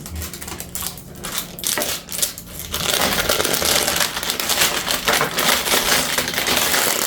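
Packaging crinkling and rustling as glass bowls are pulled out of it: a few scattered handling noises at first, then steady, dense crinkling from about three seconds in.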